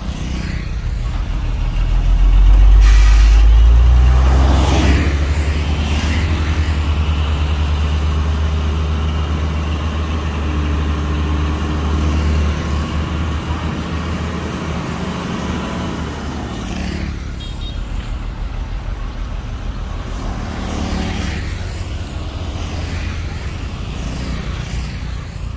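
Heavy construction vehicle's diesel engine running, loudest a few seconds in, then settling to a steadier, lower run.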